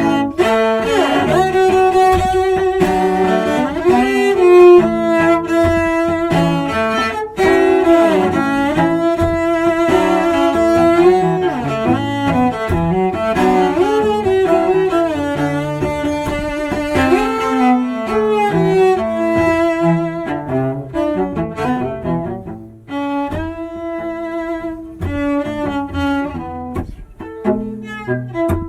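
Two cellos playing a bluesy duet: a bowed melody with sliding notes over a lower bass line. Over the last several seconds the notes turn short and separated.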